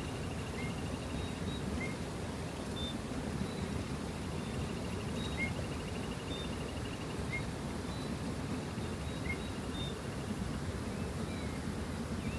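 Birds calling outdoors: short high chirps every second or two, and a rapid trill of about two seconds heard three times, over a steady low background rumble.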